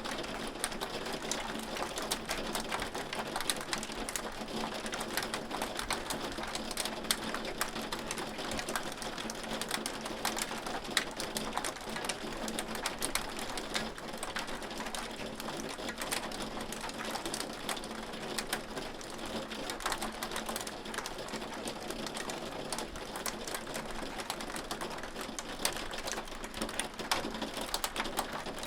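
Hail falling steadily: a dense patter of hailstones striking, with many sharp single ticks.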